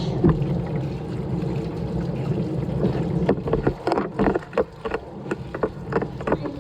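Washing machine running mid-cycle with a steady low hum and water churning. From about halfway in comes a run of sharp, irregular knocks and clatters.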